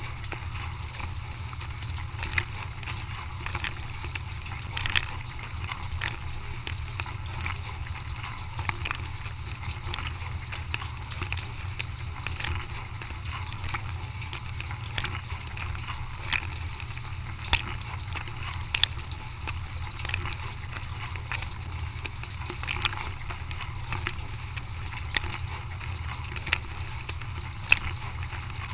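Dishwasher running, with water sloshing and spraying over a steady low hum, and scattered sharp clicks and knocks.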